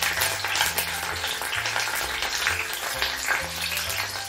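Garlic cloves and curry leaves sizzling and crackling in hot oil in a kadai, under background music with a steady low bass line.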